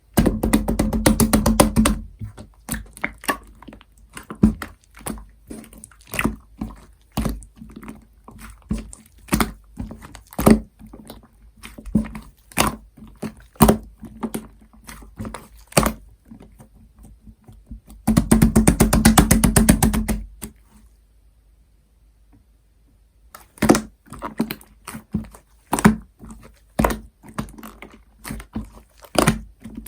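Hands kneading and squishing clear slime mixed with shaving foam: sticky, wet popping and clicking. It comes in two long runs of rapid crackling, one at the start and one about eighteen seconds in, with scattered single pops between and a short pause a little after twenty seconds.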